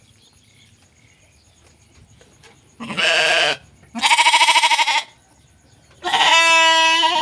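Sheep bleating three times, about three, four and six seconds in, the middle call with a quavering tremble and the last running on past the end. The sheep is calling for fresh green grass, a hungry begging call.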